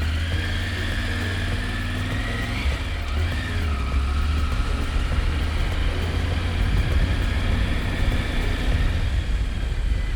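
Motorcycle engine running while riding, over a steady low rumble; its note rises and then drops back in the first few seconds.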